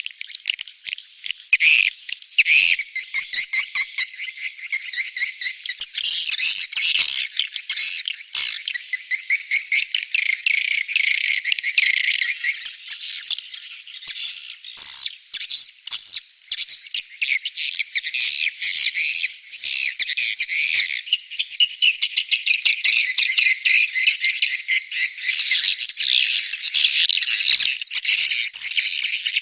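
Edible-nest swiftlets twittering: a dense, unbroken stream of high, rapid chirps and buzzy trills, several birds at once. This is the mating and breeding call played as a lure at swiftlet nesting houses.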